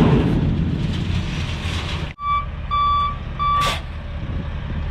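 A vehicle's backup alarm beeping three times, starting a little after two seconds in, over a heavy engine running steadily, with a sharp click just after the beeps.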